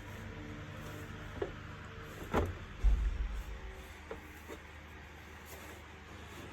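Handling noises from reassembling a bagless vacuum cleaner: a click, a sharper knock, then a heavier low thud about three seconds in, followed by a few small clicks, over a steady low hum.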